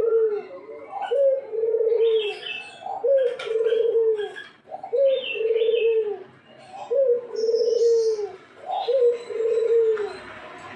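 Ringneck dove (puter) cooing over and over, a low coo about once a second, each a short rising note into a longer falling one. Higher chirps from another small bird come in between the coos.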